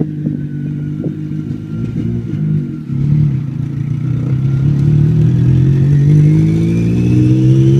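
Car engine heard from inside the cabin, running at a fairly steady pitch and then revving higher and higher over the last few seconds, with a faint whine rising with it.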